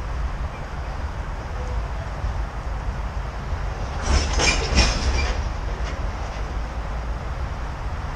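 Loaded coal hopper cars rolling slowly past with a steady low rumble. About four seconds in comes a short cluster of sharp metallic clicks with a brief high squeal from the wheels.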